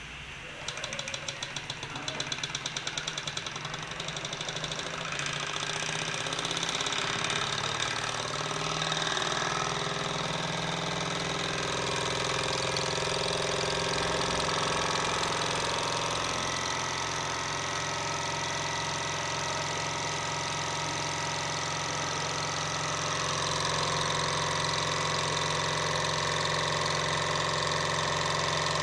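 Small model Stirling engine running: a fast, even clicking for the first few seconds that settles into a steady mechanical hum with a continuous rattle.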